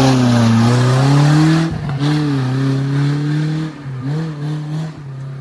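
Off-road 4x4's engine revving under load, holding a fairly steady pitch, then giving a few short throttle blips in the second half.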